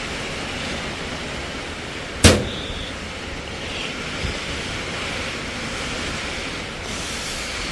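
Steady hiss of rain falling, with a single sharp knock about two seconds in and a faint tap a couple of seconds later.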